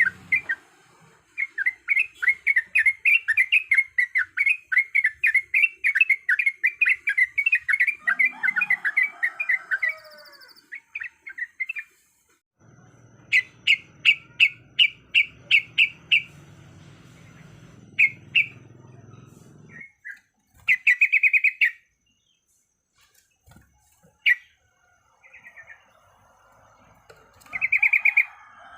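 Yellow-vented bulbul (trucuk) singing. A long, fast run of repeated chattering notes, about three or four a second, lasts for roughly the first ten seconds. It is followed by shorter bursts of song with pauses between them.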